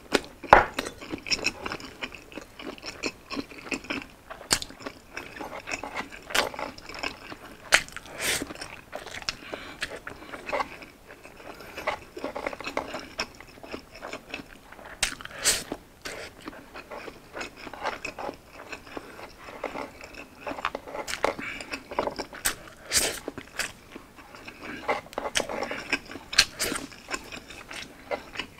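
Close-miked eating sounds: biting into and chewing Hungarian sausage, then handfuls of rice, with many irregular sharp wet smacks and clicks.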